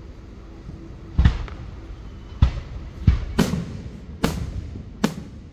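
Aerial firework shells bursting overhead: about six sharp booms, starting about a second in and coming at uneven intervals, two of them close together, each trailing off in a short rolling echo.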